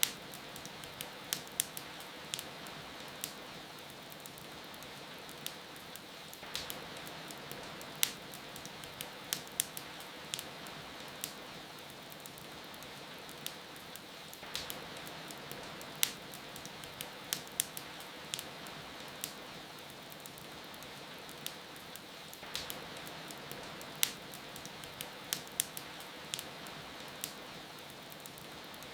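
Steady rain hiss with the irregular sharp crackles and pops of a wood fire burning in a fireplace.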